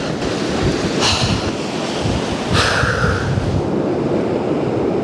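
Wind buffeting the microphone over the steady wash of ocean surf, with swells of hiss about one second and two and a half seconds in.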